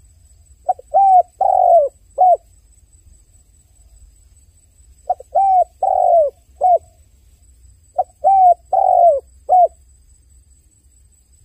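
Dove cooing: three phrases of four coos each, the third coo of each phrase longer than the others, repeated about every three and a half seconds.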